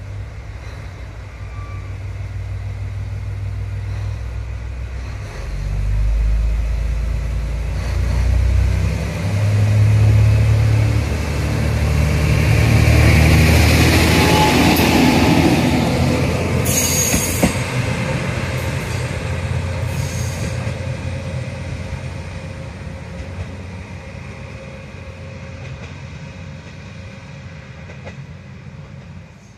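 A JR Kyushu diesel railcar train going by: the low engine note and wheel noise build, are loudest about halfway through, then slowly fade away.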